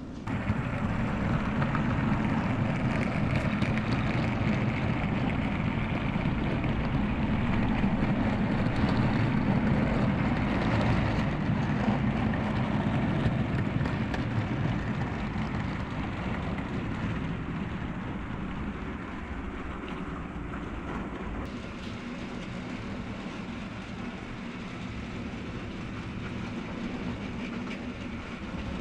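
OO gauge model train running along the layout's track, its motor and wheels making a steady running noise that starts suddenly about half a second in and grows quieter over the second half.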